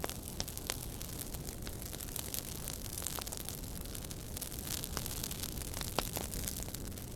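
Wood fire crackling in a fireplace: a steady low rumble of flames with frequent sharp pops and snaps scattered throughout, one sharper pop about six seconds in.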